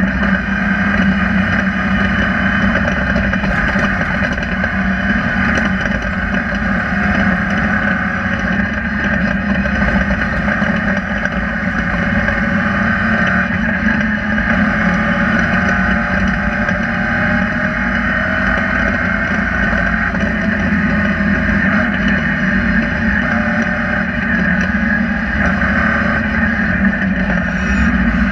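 Rally car engine running at a fairly even pitch, heard from inside the stripped, roll-caged cockpit, with road and wind noise.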